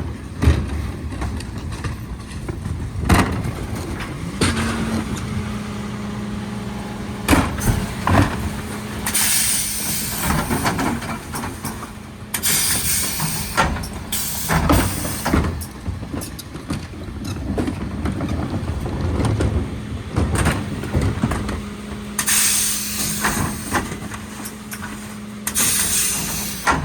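Mercedes Econic refuse truck working at close range: a steady engine hum, several bursts of air hiss and a few sharp knocks.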